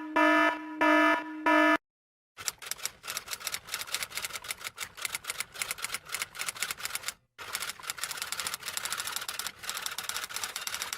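Four short electronic beeps in quick succession, then typewriter keys clattering rapidly, with a brief pause partway through.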